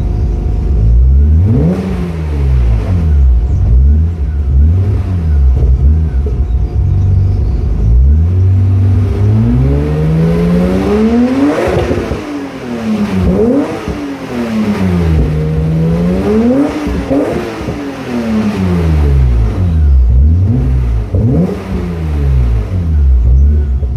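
BMW E34 M5's inline-six through an Eisenmann race exhaust, revved from idle. First comes a string of short, quick blips about once a second, then several longer, higher revs, each falling back toward idle.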